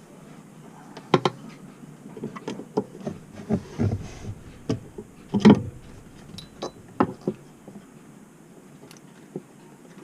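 Screwdriver and screws being handled: a string of irregular clicks and light knocks from metal parts and tools, the loudest about five and a half seconds in.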